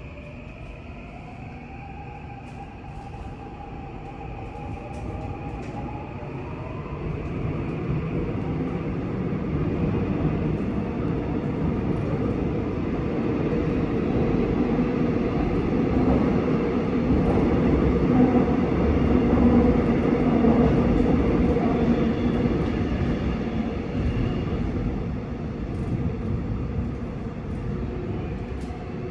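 Seoul Line 6 electric subway train pulling away, heard from inside the car: the traction motor whine rises in pitch as it accelerates, then the rumble of wheels on the rails grows louder, peaking about two-thirds of the way through and easing off near the end.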